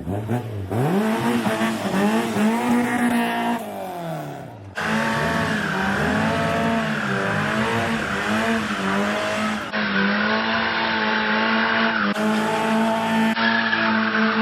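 Car engines revving hard, the pitch rising and falling, with tyres squealing in wheelspin and burnouts. The sound changes suddenly several times.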